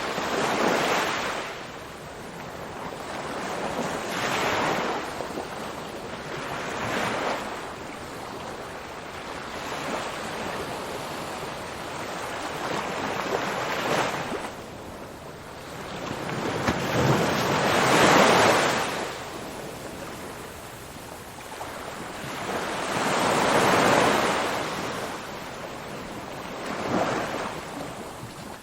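Ocean waves breaking on a shore, surging and washing back in repeated swells every few seconds, with the largest breakers about two-thirds of the way through.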